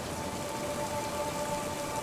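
Steady rain falling. A few soft held musical tones sound underneath and grow stronger about half a second in.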